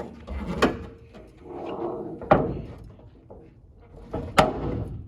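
A 1987 Toyota Land Cruiser HJ61's hood being opened: three sharp metal clunks about two seconds apart, with handling noise between, as the release and safety latch are worked and the hood is lifted.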